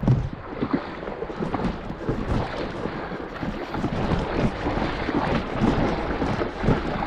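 Steady rushing and splashing of river water, with wind buffeting the microphone.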